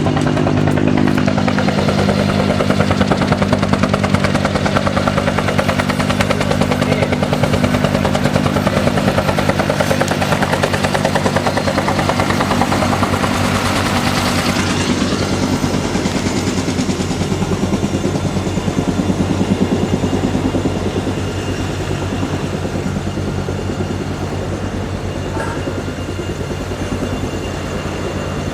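An engine running steadily with a fast, even pulsing beat, easing off a little in the second half.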